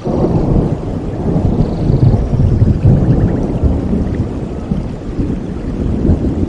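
Thunder rolling in a low, drawn-out rumble over steady rain, swelling about a second in and easing after the middle.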